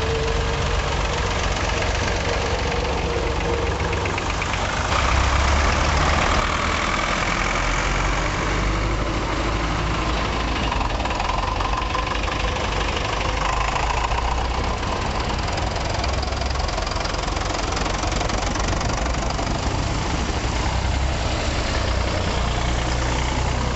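Vintage tractor engines running steadily, with a louder stretch about five seconds in.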